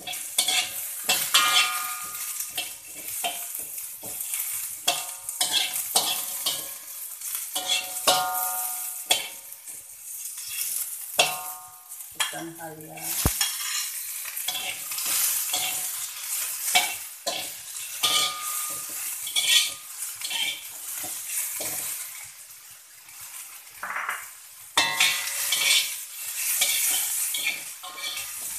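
Sliced red onion and ginger sizzling in hot oil in a metal wok while a metal spatula scrapes and taps the pan in quick, irregular strokes; some strokes set the wok ringing briefly.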